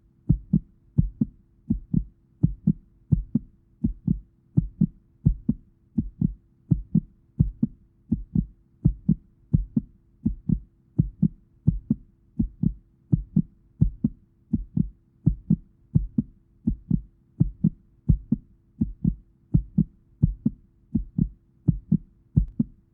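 A steady rhythm of low, dull thumps, about one and a half a second, in a heartbeat-like pulse over a faint steady hum.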